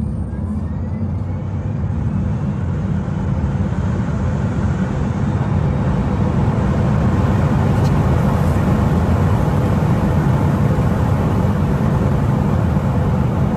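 A car driving at speed: a loud, steady rumble of engine and road noise that builds over the first few seconds and then holds.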